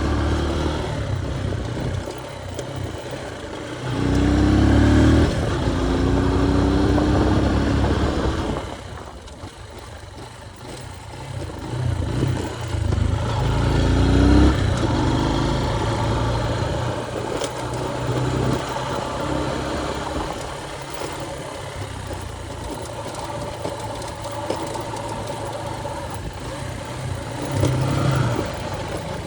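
Motorcycle engine running while riding. It revs up about four seconds in, eases off to a quieter stretch near the ten-second mark, and revs up again around thirteen seconds before settling to a steady run.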